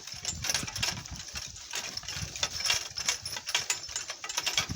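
Donkey cart rattling and bumping along over rough ground: a continuous irregular clatter of knocks and rattles.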